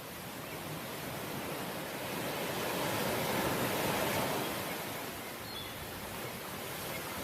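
Sea waves washing onto the shore: a steady rush of surf that swells to a peak mid-way and then ebbs.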